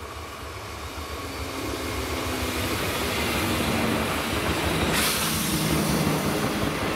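A regional multiple-unit train passing close by, its running noise growing louder as it approaches, with a rising mechanical hum. About five seconds in, a sharp hiss of wheel and rail noise joins as the cars go past.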